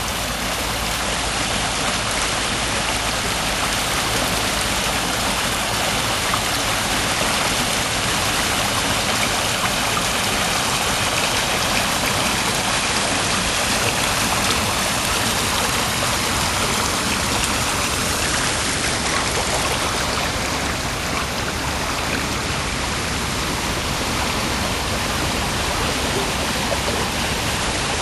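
Waterfall in a Japanese garden: water falling and splashing with a steady, unbroken rush.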